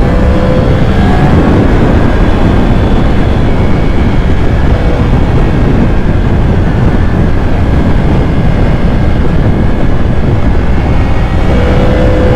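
Motorcycle riding at speed, heard as heavy, steady wind rush on the rider's microphone with the engine note underneath. The engine's pitch rises faintly near the start and again near the end.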